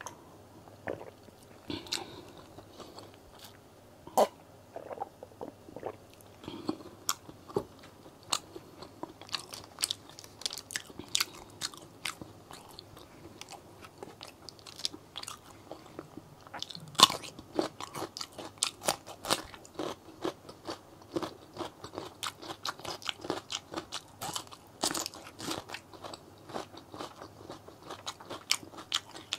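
Crunching and chewing of crisp raw green vegetable, close to the microphone. The bites are sparse at first and come thick and fast in the second half, the loudest crunch about halfway through.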